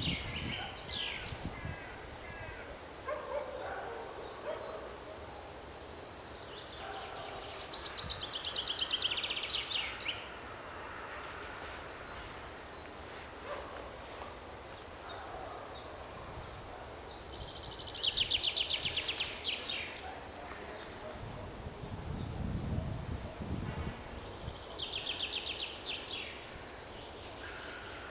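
Bird calling in loud, rapid, high chattering bursts of about two seconds each, three times, with fainter scattered bird calls in between.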